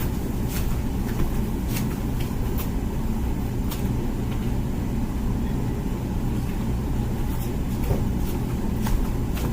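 Comfee dishwasher running mid-wash: a steady low hum of the pump with water spraying inside the tub, and scattered sharp ticks.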